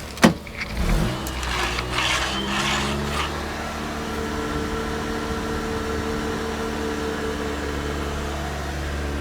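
A sharp click, then the Honda Civic's 1.7-litre four-cylinder engine starts about a second in and settles into a steady idle.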